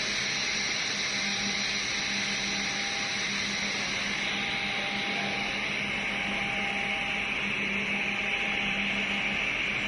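Automatic edge banding machine running: a steady motor hum with a broad high hiss, unchanging throughout.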